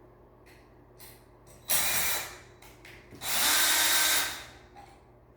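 Power drill/driver running in two short bursts, the second about a second long, as screws are driven or backed out.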